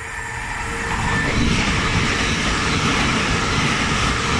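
Lumo Class 803 electric train passing through the station without stopping, its noise swelling over the first second or so as it comes in and then holding loud and steady as the carriages run past close by.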